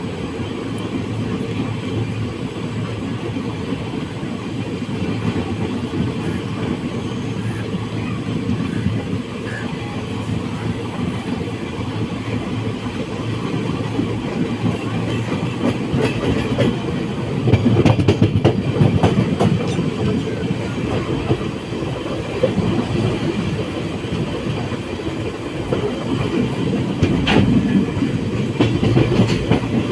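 Steady low rumble of a moving vehicle, with scattered clicks and knocks; it grows louder a little past the middle and again near the end.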